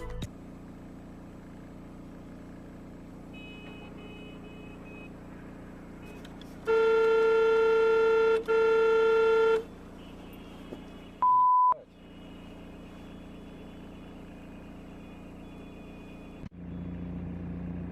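Steady vehicle cab hum, broken about seven seconds in by a vehicle horn sounding in two long blasts, the first longer than the second. A few seconds later comes a short, pure beep with the other sound dropped out around it, like a censor bleep; near the end the hum changes abruptly to a louder, lower one.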